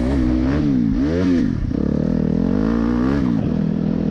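Dirt bike engine running, its pitch rising and falling twice as the throttle is opened and closed.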